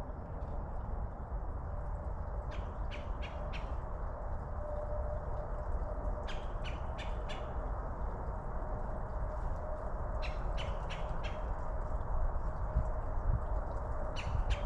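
A bird calling in runs of four to seven short, harsh notes, a run every few seconds, over a steady low background hiss.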